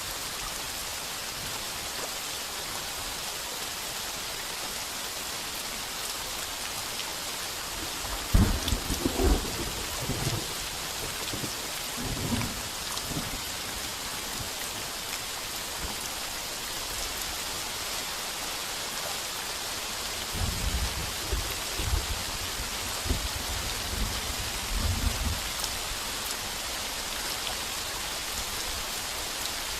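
Heavy rain pounding on a tin roof, a steady hiss. Thunder cracks and rumbles about eight seconds in, the loudest moment, and rumbles again from about twenty seconds in.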